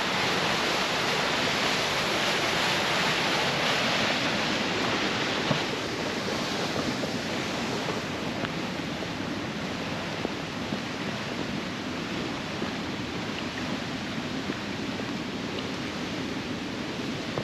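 Large waterfall roaring: a steady, dense rush of falling water that eases a little about five and a half seconds in.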